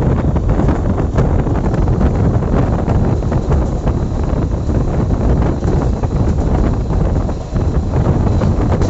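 Wind rushing and buffeting the microphone over the steady rumble of a passenger train running at speed.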